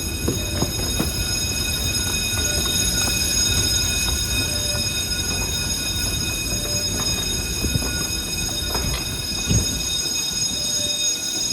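MBTA Red Line subway train at the platform: a steady low rumble with several steady high-pitched whining tones over it.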